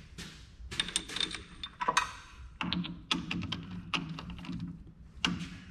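Metal tools and parts being handled in a workshop: a run of sharp clicks, knocks and rattles, with a steady low hum coming in about two and a half seconds in.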